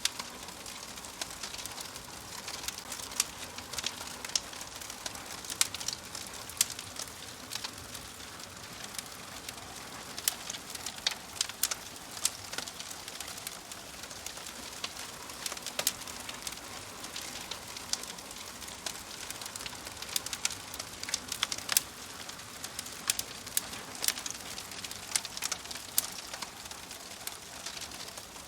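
Wood fire crackling: irregular sharp snaps and pops over a steady soft hiss.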